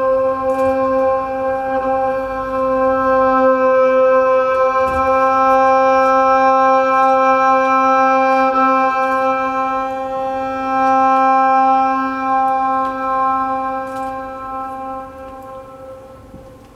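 A single sustained musical note held steady as a drone, fading out near the end.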